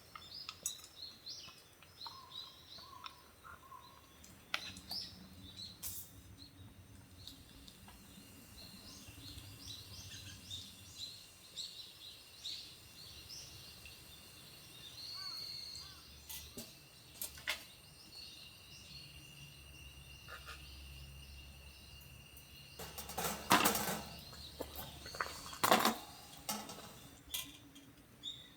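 Small birds chirping in short, scattered calls, with a few loud knocks or clatters near the end.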